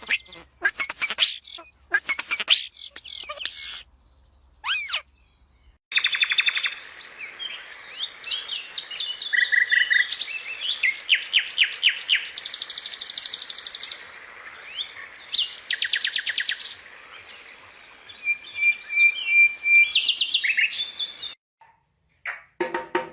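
A parrot chirping and calling: rapid trills, runs of quick repeated notes and short whistles, broken by two short silences, one about four seconds in and one near the end.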